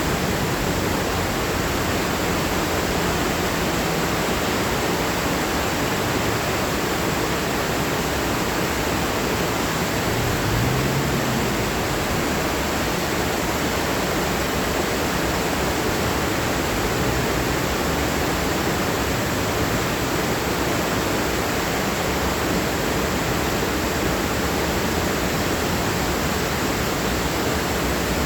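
Heavy rain falling, a steady even hiss with no letup.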